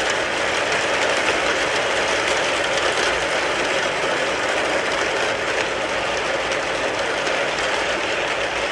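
Rain falling steadily on a car, a dense, even patter of drops.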